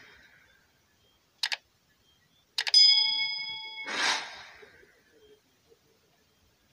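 Edited sound effects: a quick double click, then a click and a bright bell ding that rings for about a second before a whoosh cuts it off.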